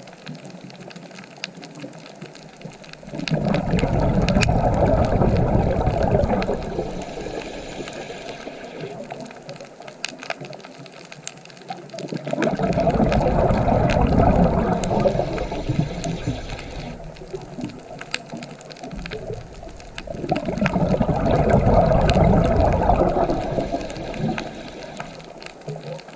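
Ocean waves breaking and washing in three times, about every eight seconds: each surge swells for a few seconds with a deep rush, then drains away to a quieter hiss.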